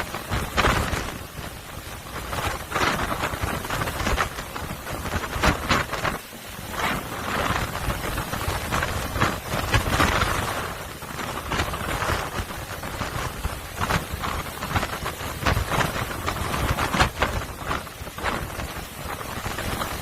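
Typhoon-driven swell crashing against the harbour breakwater and washing over it. Repeated irregular crashes and splashes ride on a continuous rush of water with a deep rumble underneath.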